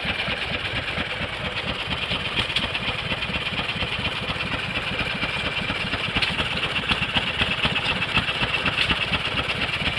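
Antique stationary gas engines running steadily, their firing a rapid, even beat.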